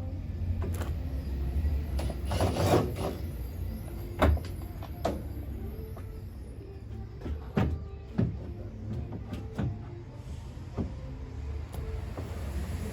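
Parts and tools being handled and set down: scattered knocks and clicks, the sharpest about four seconds in, over a steady low rumble.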